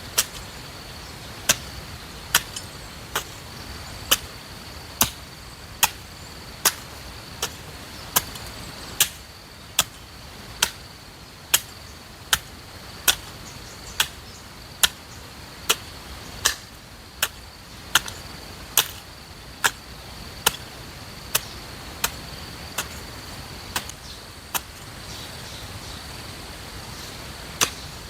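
Garden hoe chopping into the soil in steady strokes, a sharp strike a little faster than once a second, with a brief pause near the end. A constant high insect drone runs underneath.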